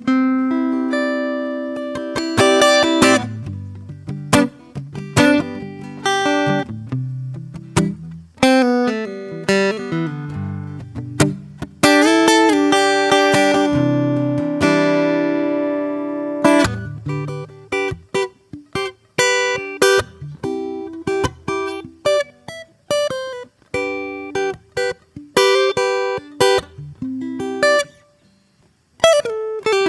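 Solo acoustic guitar played softly in an improvised style: single plucked notes and chords left to ring, with a short pause near the end before the playing picks up again.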